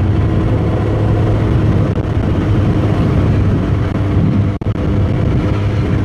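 Suzuki GSX-S1000's inline-four engine running at a steady cruise on the road, holding an even pitch, with a momentary dropout in the sound a little past halfway.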